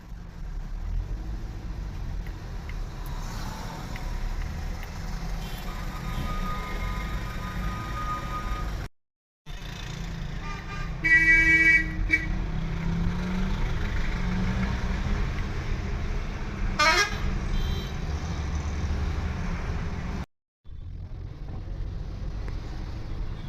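Steady low rumble of a vehicle driving along with traffic, broken by a vehicle horn honking for about a second near the middle, and a short sharply rising whistle-like glide a few seconds later. The sound cuts out completely twice, briefly.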